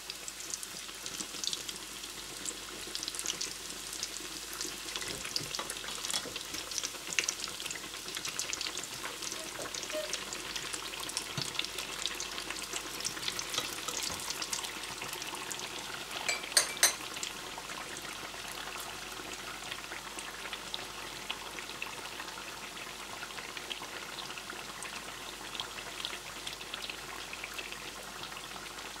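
Breaded zucchini slices frying in hot oil in a stainless steel pan: steady sizzling full of crackles and pops, busier in the first half. About halfway through, a quick run of a few sharp clicks, the loudest sound.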